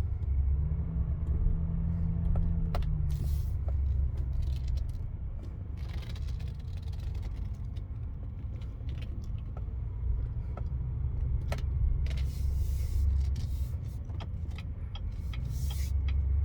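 Chevrolet Silverado 3500HD's 6.6-litre Duramax V8 turbo-diesel running as the truck is driven slowly, a steady low rumble that swells and eases a little, with scattered light clicks and rattles.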